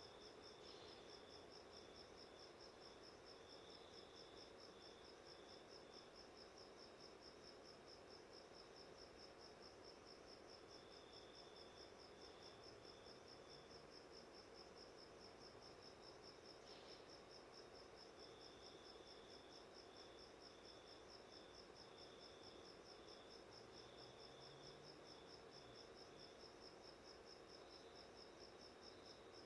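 Faint crickets chirping: a continuous, evenly pulsing high trill, with a second, slightly lower chirping that starts and stops in runs.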